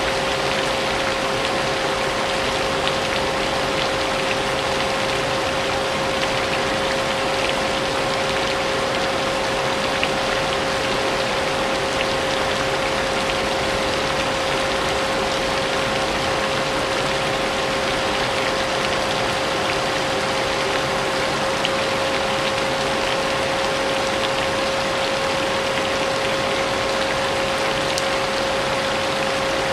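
Vacuum cleaner running steadily with a constant motor whine, mixed with the hiss of steady rain.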